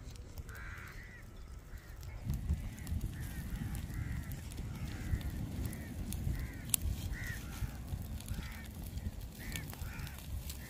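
Birds calling over and over, roughly one short call a second, above a low rumble, with a single sharp crack a little past the middle.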